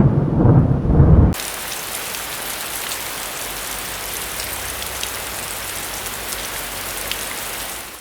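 A low thunder rumble for about the first second, then an abrupt change to the steady, even hiss of heavy rain.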